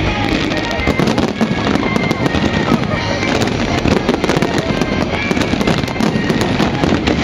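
Dense, continuous barrage of aerial fireworks: rapid crackling and popping over a heavy low rumble of bursts, with no pause.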